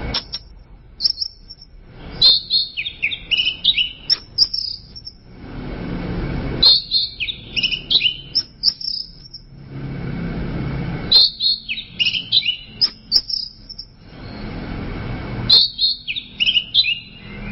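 Orange-headed thrush (anis merah) singing: four quick phrases of varied high chirps and whistles, one about every four seconds. A low rushing noise swells in the gaps between the phrases.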